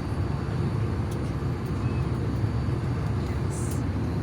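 Steady drone of an airliner's cabin in flight: the low rumble of the engines and rushing air.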